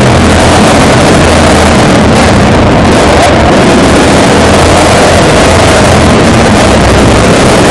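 Modified Royal Enfield motorcycle with an aftermarket exhaust running loudly and steadily close to the microphone, so loud that the recording is overloaded.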